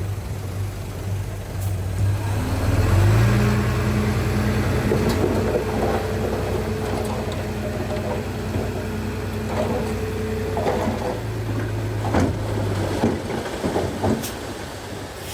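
Diesel engine of heavy earthmoving equipment revving up about two to three seconds in, then running steadily under load, with a few metal clanks near the end.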